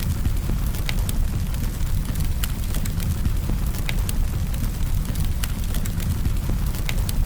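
Campfire burning with a steady low rumble of flames and scattered sharp crackles and pops of wood.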